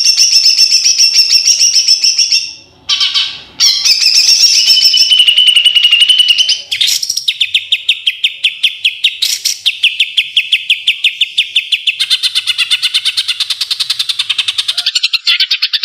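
White-rumped shama (murai batu) singing loudly: whistled phrases broken by short pauses, then, about seven seconds in, a long run of rapid, evenly repeated notes. A second line of song joins it near the end.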